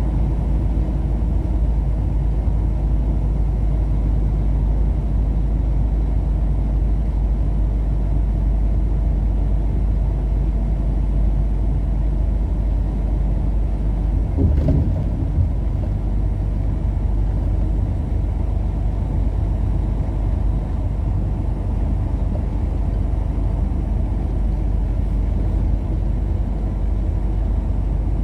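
A car driving at road speed: a steady low rumble of engine and tyre noise, with a brief thump about halfway through.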